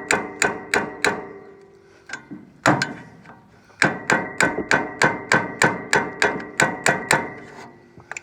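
Hammer rapidly tapping a chisel against metal on a Farmall M tractor, knocking a fastener tight in place of a wrench. The strikes come about four a second, each with a ringing metallic note, in two runs with a short pause and two single strikes between them.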